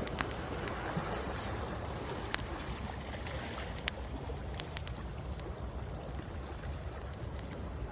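Wood bonfire crackling, with a few sharp pops at irregular times, over the steady wash of sea waves breaking on the shore.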